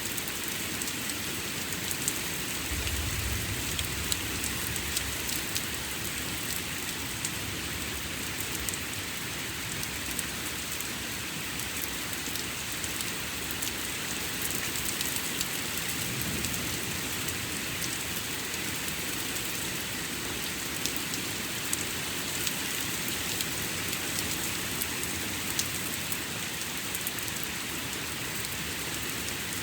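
Steady rain falling during a thunderstorm, with many individual drops ticking close to the microphone. A faint low rumble of distant thunder comes a few seconds in and again about halfway through.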